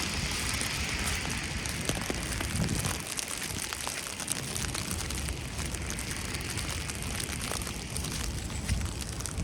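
Falling snow pattering steadily as a dense hiss of fine ticks, with an occasional soft low thump.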